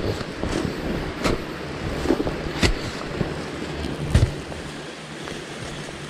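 A digging tool striking earth four or five times at irregular intervals while a ground-bee nest's burrow is dug out, the loudest stroke about four seconds in. A steady hiss runs underneath.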